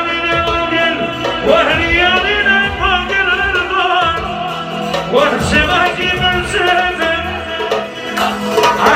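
A song: a singer with wavering vibrato over steady instrumental accompaniment.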